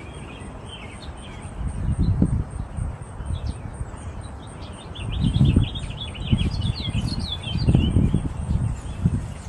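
Small songbirds chirping, a quick run of chirps thickest in the middle. Under them come louder low, rumbling bursts a few times.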